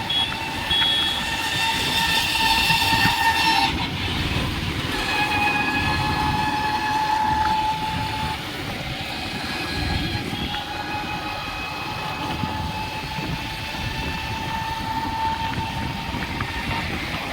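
A long, high, steady pitched tone with overtones, held and stepping in pitch a few times, over a continuous low rumble.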